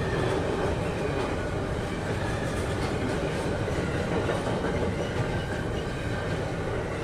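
Freight train of double-deck car-carrier wagons rolling past at close range: a steady rumble with the wheels clattering over the rail.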